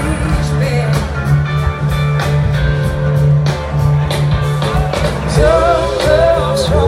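Live blues-rock band playing at full volume, with a steady bass and drum groove and guitar. A wavering lead melody comes in about five seconds in.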